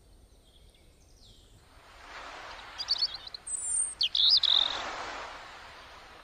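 A few short bird chirps a little past the middle, over a rushing noise that swells up about two seconds in and fades away near the end.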